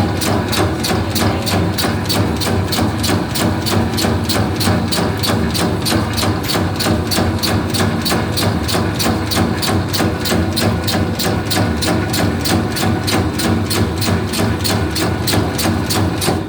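Meatball-forming machine running: a steady motor hum with an even clacking about four times a second. It cuts off suddenly near the end.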